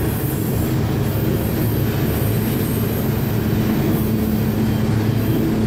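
Freight train running on the rails, heard from aboard: a steady, loud rolling rumble with a faint constant hum held through most of it.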